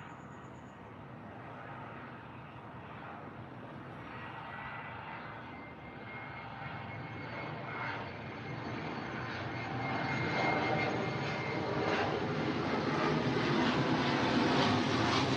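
Distant engine noise, a steady rumble that grows louder throughout.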